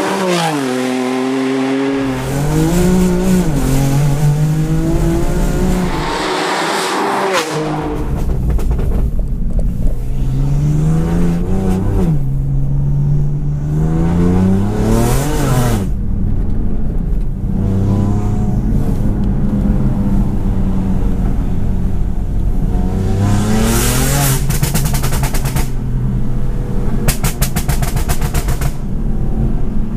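BMW M4's twin-turbo straight-six, tuned to 720 bhp and breathing through an Armytrix exhaust, accelerating hard: the revs climb and drop at each gear change, several times over. Near the end comes a rapid run of sharp exhaust cracks.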